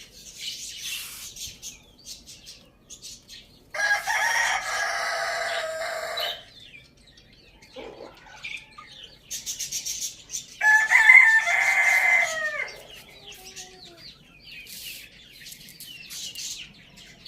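Rooster crowing twice, each crow about two and a half seconds long, the second ending in a falling tail, with small birds chirping between and around the crows.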